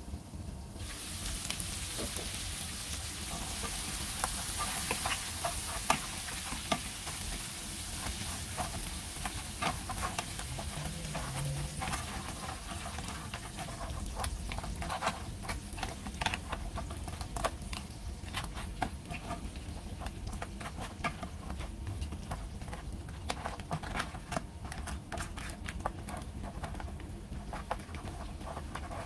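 Crab pieces sizzling as they fry in a pan, with the clicks and scrapes of a wooden spatula stirring and turning them. The sizzle comes in strongly about a second in and eases off later.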